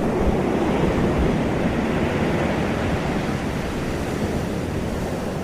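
Steady rushing wash of surf, with wind buffeting the microphone.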